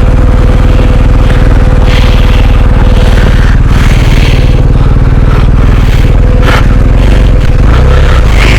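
Adventure motorcycle engine running loud and close at steady low revs, with occasional knocks and scrapes from stones under the tyres on a rutted gravel track.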